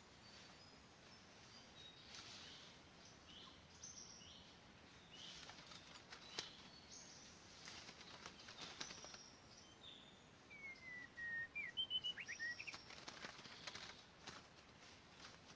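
Faint chirps and short whistled calls of forest birds, with a quick run of notes about two-thirds of the way through and a few soft clicks.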